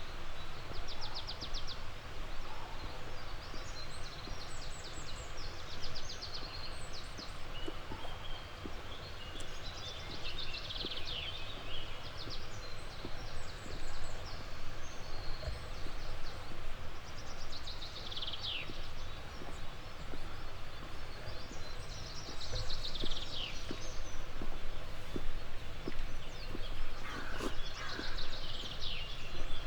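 Songbirds singing short phrases every five seconds or so, several of them falling trills, over a steady rushing background noise. Faint footsteps of a walker on a path tick underneath.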